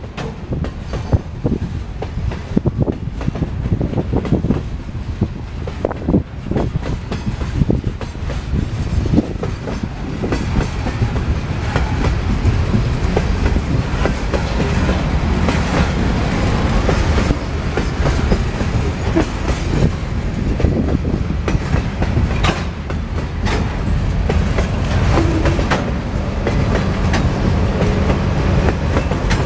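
Freight train of insulated refrigerated boxcars rolling past, wheels rumbling and clacking steadily over the rail joints; it grows louder about ten seconds in.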